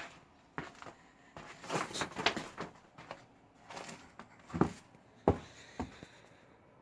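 A series of irregular knocks and crunching scrapes, with a busier stretch about two seconds in and two sharper knocks near the end.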